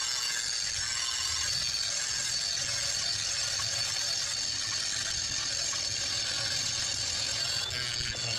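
Electric welding arc crackling and sizzling steadily, a continuous even hiss with a slight dip near the end.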